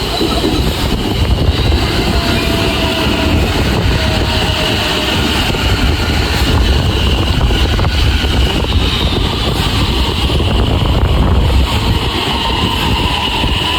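A train running: a loud, steady rumble that holds without letting up.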